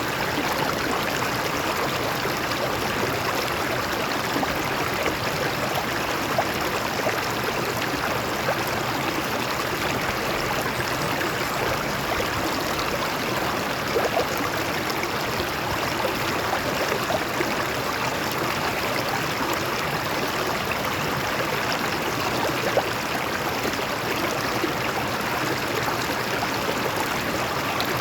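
Stream water flowing and splashing over rocks, a steady rushing with small splashes now and then.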